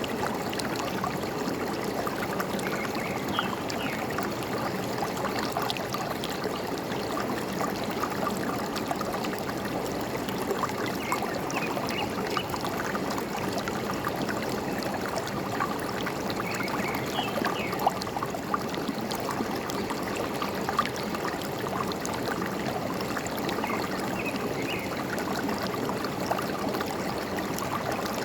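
Forest stream flowing and gurgling steadily, with a few faint short bird chirps now and then.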